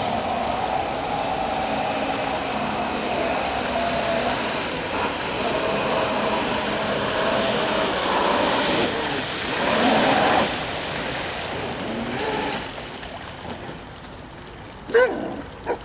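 Electric, battery-powered jet kayak running on the water: a steady rush of water from the jet with a wavering whine from the motor, swelling and then dropping away about three-quarters of the way through. Two sharp knocks near the end.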